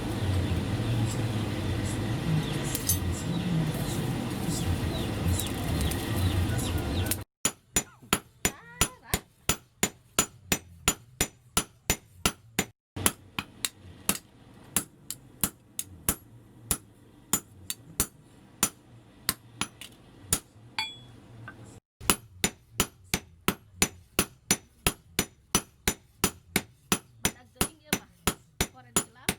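Hand hammer striking leaf-spring steel on an anvil while forging a blade: a steady run of sharp metallic blows, about two to three a second. It follows several seconds of a steady low rumbling noise.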